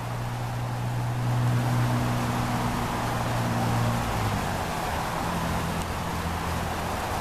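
A steady low engine or motor hum that shifts to a lower pitch about four seconds in, over a steady hiss.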